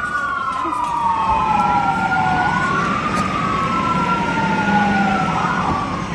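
Two emergency-vehicle sirens on a slow wail, each rising and falling over a couple of seconds, out of step so their pitches cross, with a quick warble from one near the end.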